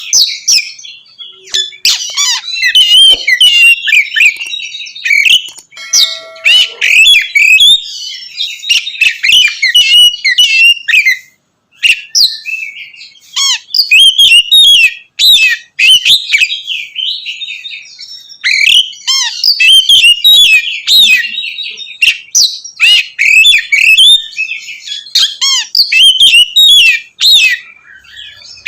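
Oriental magpie-robin (kacer) singing its full, loud 'ngeplong' song: a fast, varied run of sweeping whistles and chattering notes, with a short break about eleven seconds in.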